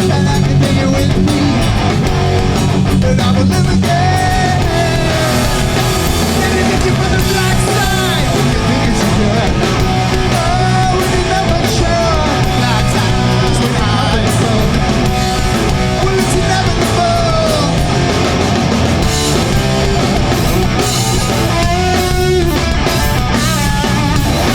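Hardcore punk band playing live: distorted electric guitars, bass and drums at full volume, with a sung vocal line over them.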